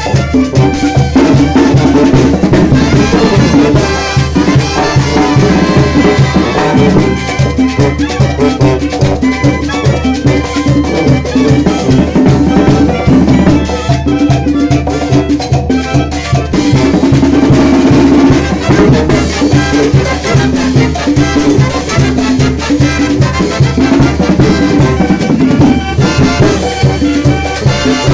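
A Mexican brass band playing dance music, brass over drums with a steady beat.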